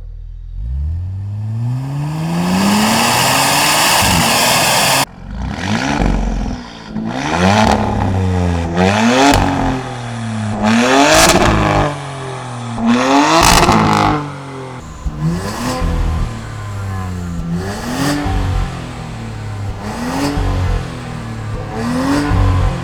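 Porsche Cayenne S 2.9 twin-turbo V6 with Veleno catted downpipes revving: one long climb in revs over the first five seconds that cuts off suddenly, then a string of throttle blips, the revs rising and falling about ten times.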